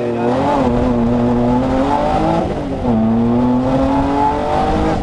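Rally-raid 4x4 car's engine heard from on board, accelerating along a dirt track. Its pitch climbs steadily, drops at an upshift about three seconds in, then climbs again.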